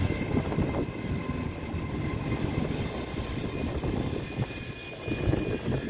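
ScotRail Class 385 electric multiple unit running slowly into the platform, a low rumble mixed with wind buffeting the microphone.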